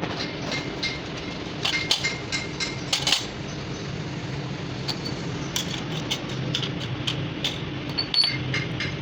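A machine runs steadily in the background while metal parts are handled, with many short, sharp metallic clicks and clinks, several close together about two to three seconds in and more scattered through the second half.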